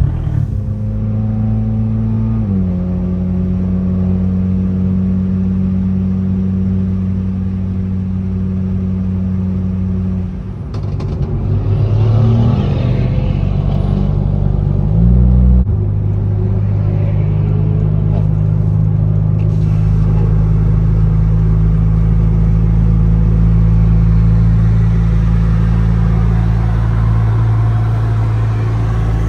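Car engine droning at steady cruising revs, with its pitch stepping down and back up a few times as the revs change.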